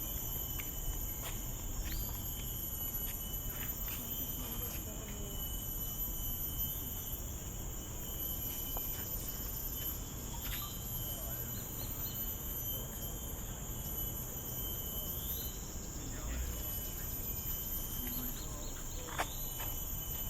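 Steady high-pitched insect chorus of tropical forest insects, several droning tones layered together, with a few short rising chirps now and then over a low rumble.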